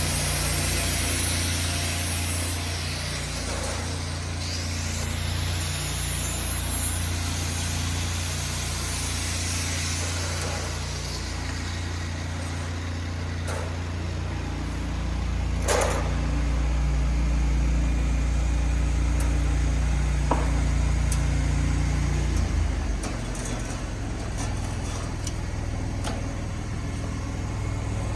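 An engine running steadily at an even speed, settling to a lower, slower note about 23 seconds in. Over it there is a hissing crackle through the first ten seconds or so, and a few sharp clicks, the loudest one about 16 seconds in.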